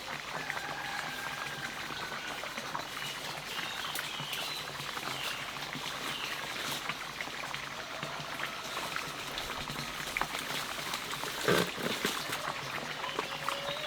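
Water trickling and splashing, with many small clicks and one sharper, louder splash or knock about eleven and a half seconds in.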